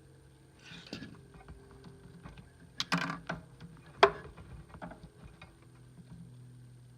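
A few scattered clicks and knocks, the loudest about four seconds in, over a low steady hum.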